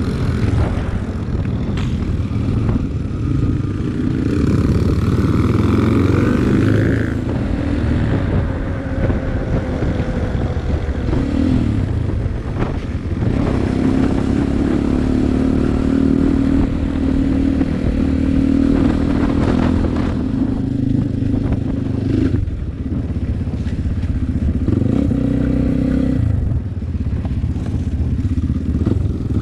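Off-road dirt-bike engine running and revving up and down, with clattering, on a trail ride.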